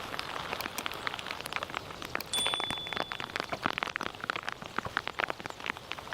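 Many irregular light ticks and crackles, like pattering drops, with a brief high steady tone a little over two seconds in.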